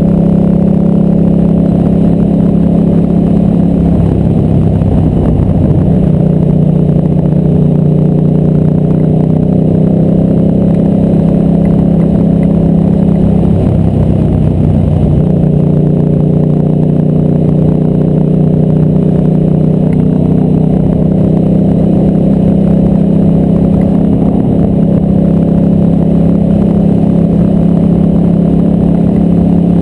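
Ducati Multistrada 1000's air-cooled 1000cc V-twin engine running under way at a steady cruise, heard from on board the bike. Its steady note wavers briefly twice, about four and fourteen seconds in.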